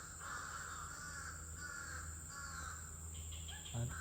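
Harsh, cawing bird calls repeating in short phrases over a steady high-pitched drone of rainforest insects.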